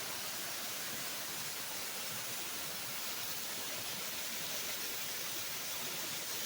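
Waterfall's falling water making a steady rushing hiss, even throughout.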